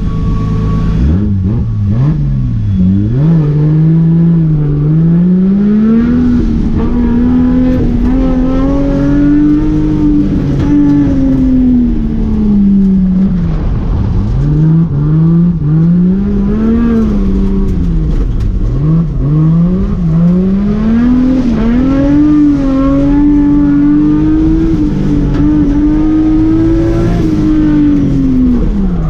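Nissan 180SX's swapped Toyota 1JZ straight-six engine under hard driving, its revs climbing and dropping over and over as the car accelerates and slows, with deep drops in pitch a few times.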